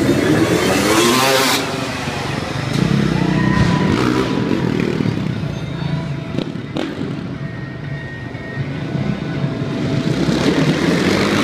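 Dirt bike engine revving hard, the pitch climbing steeply in the first second or so and again near the end, with the engine running in between and music playing in the background.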